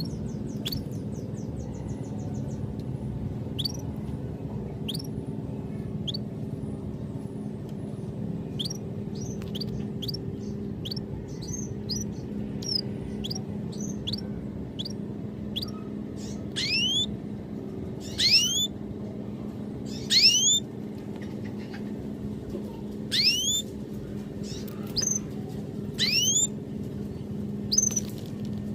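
Birds calling with short, rising, whistled chirps, scattered at first and then louder and repeated about every two seconds in the second half, over a steady low hum.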